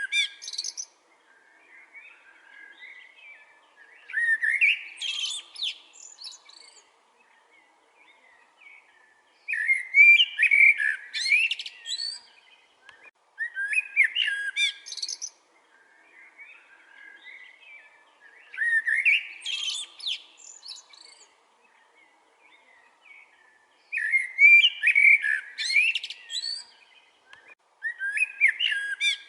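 A songbird singing loud, quick, whistled phrases that sweep up and down in pitch, repeated every four to five seconds, with quieter chirping from other birds in between.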